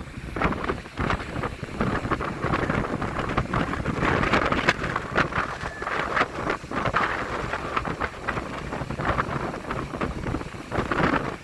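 Strong wind buffeting the microphone in uneven gusts, a low rumbling rush that swells and eases.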